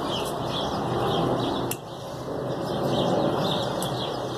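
Small birds chirping repeatedly over a steady low background rumble, with a single sharp click a little under two seconds in.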